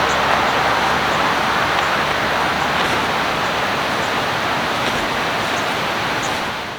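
Steady road traffic noise, an even rushing hum at a constant level with no single vehicle standing out.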